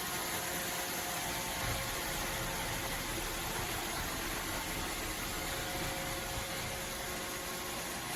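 Robot vacuum running steadily: an even whooshing hiss with a few faint steady whining tones above it.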